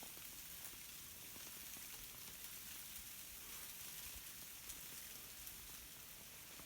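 Ice-glazed tree branches crackling as a gentle breeze sways them: a faint, steady crackle of many tiny cracks and ticks, the ice on the twigs breaking up.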